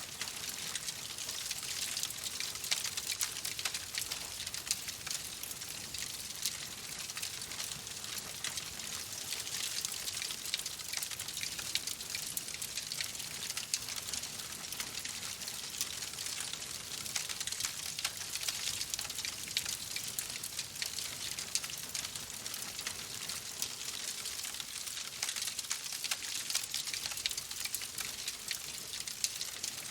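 Fire crackling in a fireplace: a steady hiss dotted with dense, small pops and snaps.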